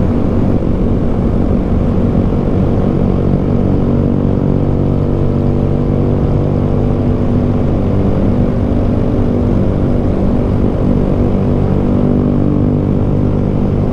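Honda Grom 125cc single-cylinder motorcycle engines running at a steady cruising speed, their pitch drifting slightly up and down in the middle.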